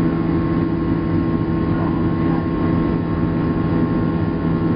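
Steady cabin noise inside a Boeing 737-700 airliner: a constant hum from the engines and rushing air, with several steady low tones.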